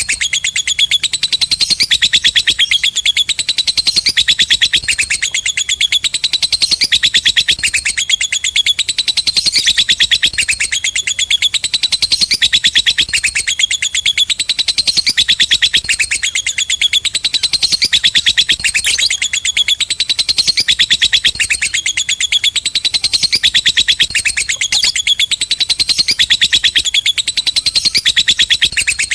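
Lovebird 'ngekek': a long, rapid, high-pitched chattering trill that runs on without a break, repeating in phrases of a second or two.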